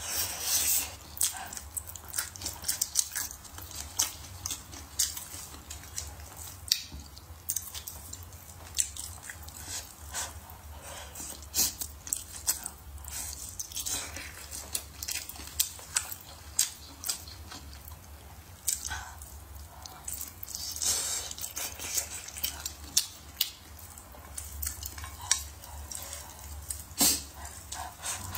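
Close-up chewing and biting of braised pork trotter and fried tofu: wet smacks and a dense run of short, sharp mouth clicks.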